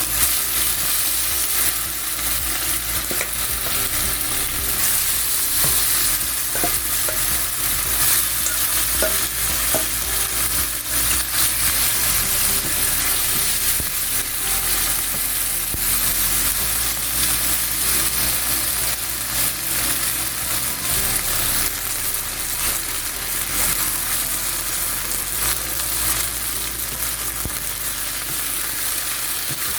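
Cornstarch-coated chicken strips sizzling steadily in hot oil in a wok, with scattered small clicks and scrapes.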